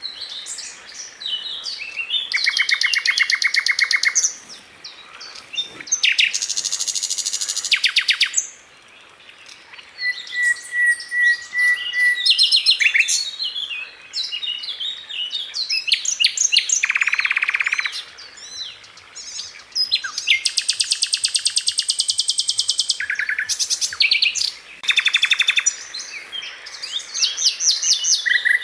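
Sikatan londo singing: bursts of very fast, tightly spaced repeated notes, each a second or two long, alternating with short chirps and brief pauses.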